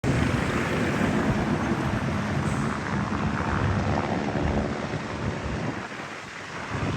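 Helicopter flying nearby, a steady rumble of engine and rotor with wind on the microphone, easing off a little near the end.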